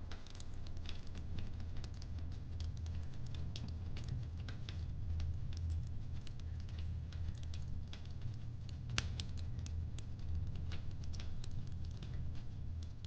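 Wood fire crackling: irregular small pops and snaps over a steady low rumble, with a sharper pop about nine seconds in.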